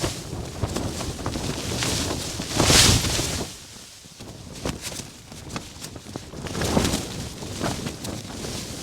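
Gale-force wind gusting against a Hilleberg Akto tent, with frequent short sharp snaps. A strong gust swells about three seconds in and dies away, and the wind rises again near the end.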